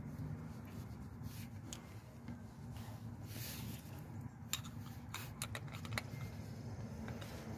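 Light clicks and taps of small metal parts and hand tools being handled, with a short scraping rustle about three seconds in and a cluster of clicks in the second half.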